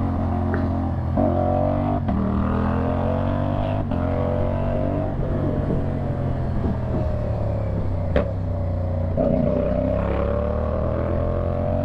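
CFMoto 450SR's parallel-twin engine with a slip-on exhaust, under way with its pitch rising and falling with the throttle. Brief sharp breaks about two, four and eight seconds in fit quickshifter gear changes.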